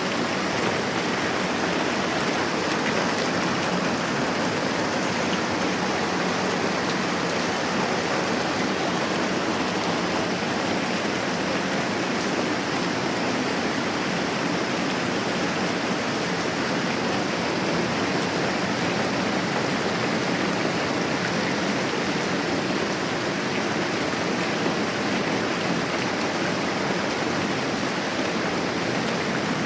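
Moderate rain falling steadily, an even unbroken hiss.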